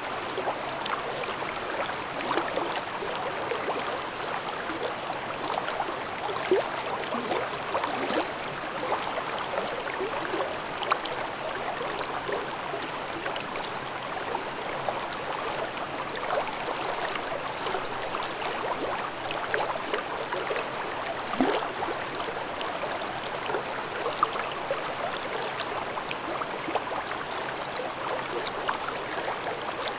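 Babbling brook in a gorge: water running steadily over rocks, with constant gurgling and small splashes.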